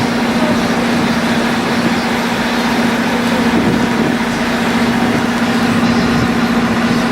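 Steady low motor hum under a loud, even rushing noise, cutting off abruptly at the end.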